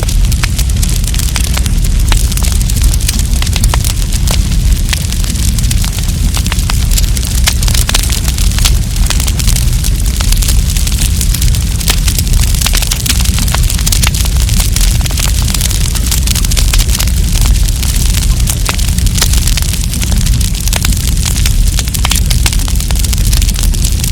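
Wood campfire crackling and popping in a dense, irregular stream of sharp snaps, over a steady low rumble of the burning fire.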